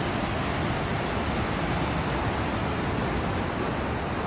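Steady rushing of the Rhine Falls, an even wash of falling water with no breaks.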